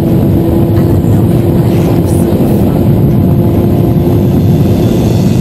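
Sport motorcycle running at a steady speed, its engine holding one even pitch under heavy wind rush on the microphone.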